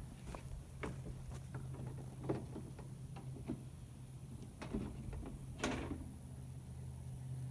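An engine idling with a low steady hum, with a few light knocks and clunks spread through it.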